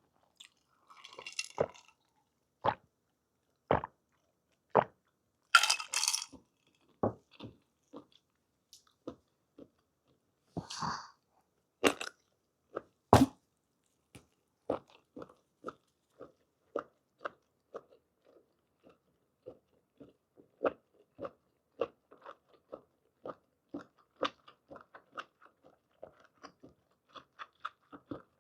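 Close-miked chewing of soft blanched squid and scallion, with wet mouth clicks and smacks. There are a few louder wet bursts early on, then steady chewing at about two chews a second through the second half.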